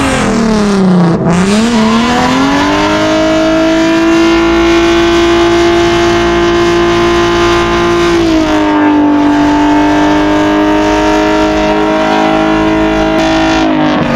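A performance car's engine revving hard. The pitch dips briefly about a second in, then climbs and is held steady at high revs for about ten seconds, with a small drop midway, before falling away at the end.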